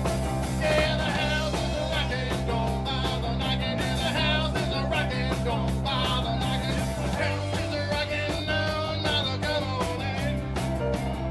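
Live rock and roll band playing a song, with bass, guitar and a keyboard.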